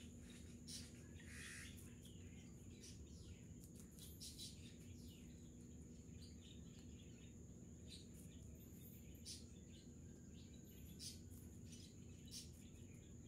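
Faint outdoor quiet: scattered short bird chirps over a steady low hum and a thin steady high whine.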